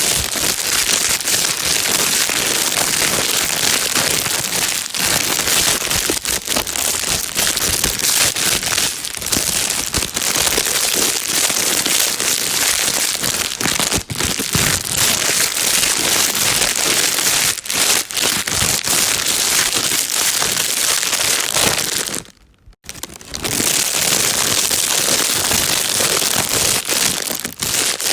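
Plastic bag being crinkled and rustled continuously, a dense crackling noise, with a brief pause about 22 seconds in.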